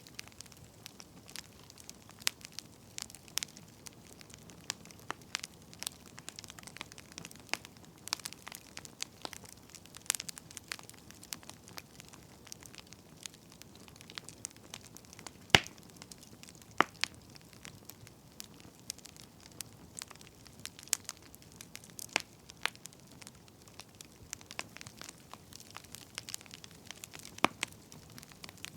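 Wood fire crackling: irregular snaps and pops over a faint hiss, with one louder pop about halfway through.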